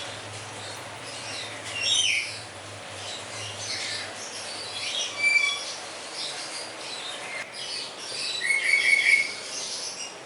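Birds chirping: many short, high calls and quick falling whistles, over a steady low hum that stops about two thirds of the way through.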